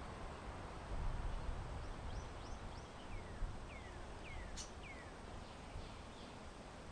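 A small songbird calling: a string of short, high chirps, each sliding downward in pitch, from about two seconds in to about five. The calls sit over a steady outdoor hiss and a low wind rumble, which swells about a second in.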